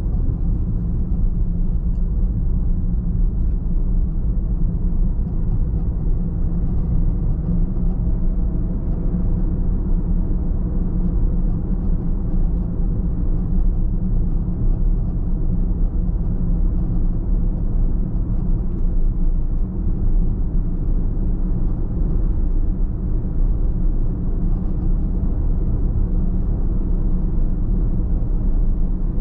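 A car driving at a steady pace: a constant low rumble of tyres on the road and the engine, with no changes or sudden events.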